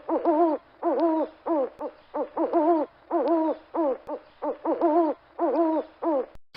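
Owl hooting in a rapid series: short groups of quick hoots, each group ending in a longer wavering hoot, repeated about ten times. It cuts off shortly before the end.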